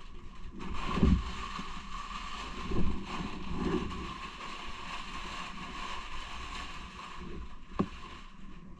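Elevator car travelling upward: a steady rushing hum with a few low bumps about a second and three seconds in, and a sharp click near the end.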